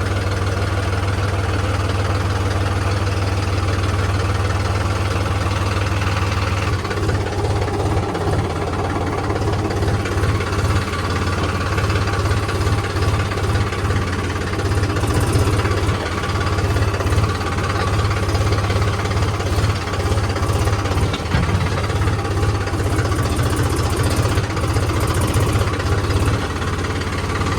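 Diesel engine of a tractor or backhoe loader running steadily, its note turning rougher and more uneven about seven seconds in.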